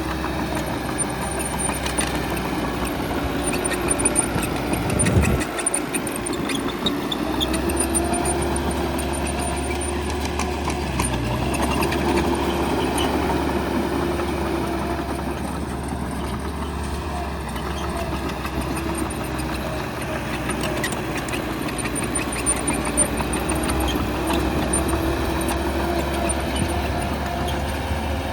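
Heavy earthmoving machine's engine running steadily under changing load, its pitch rising and falling, with a deep surge about five seconds in.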